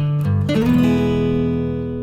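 Background music on acoustic guitar: quick picked notes, then a strummed chord about two-thirds of a second in that rings and slowly fades.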